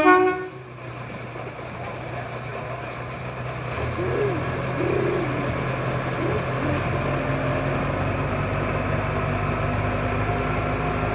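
Romney, Hythe and Dymchurch miniature railway train: a locomotive whistle blast cuts off at the start, then the train runs on with a steady low engine-and-wheel sound that grows a little louder about four seconds in.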